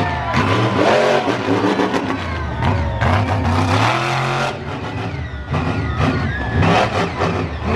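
Monster truck engine revving hard, its pitch rising and falling again and again, with a short drop in level about five seconds in.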